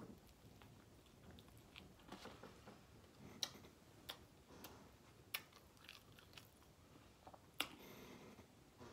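A person chewing a mouthful of soft sub sandwich, faint, with scattered sharp wet mouth clicks.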